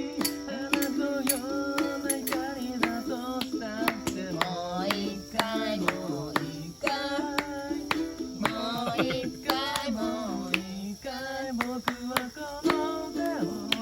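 Ukulele strummed in a steady rhythm while a voice sings a melody along with it.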